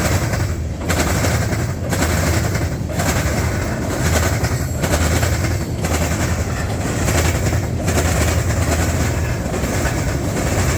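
Freight train rolling past close by on the Canadian National line, its wheels clacking over the rail joints in a steady rhythm about once a second over a low rumble.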